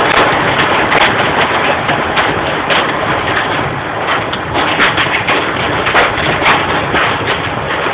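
Hail and heavy rain pelting a car, a dense, continuous clatter of hard ticks and knocks over a steady rush of rain.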